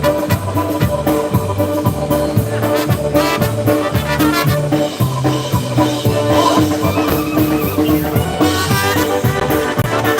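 Live polka band playing an instrumental tune, with brass and accordion over a steady bass-and-drum beat.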